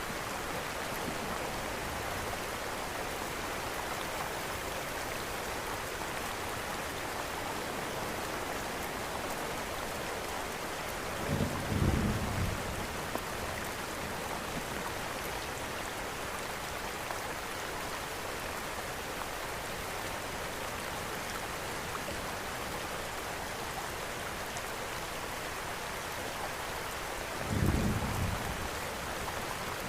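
Steady rain falling, with a short low rumble of distant thunder about twelve seconds in and another near the end.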